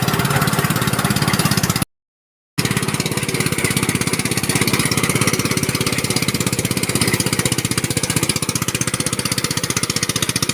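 Small engine of rice-harvesting machinery running steadily with a fast, even pulse. It cuts to silence for under a second about two seconds in, then runs on.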